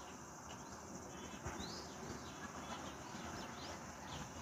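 Small birds chirping: a run of short, high, quick chirps beginning about a second and a half in, over a steady background hiss.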